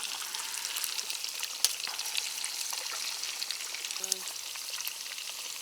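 Campfire crackling, with a steady hissing sizzle and scattered sharp pops.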